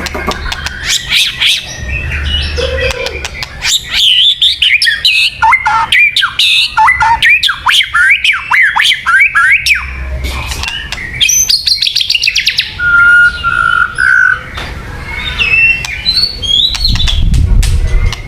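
White-rumped shama singing a loud, varied song: clicking and chattering notes, a fast run of sliding whistles in the middle, and a few held whistled notes near the end.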